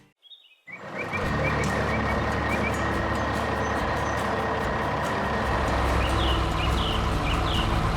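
Heavy truck engine running steadily with a low rumble, starting after a brief silence about half a second in, with short bird chirps now and then.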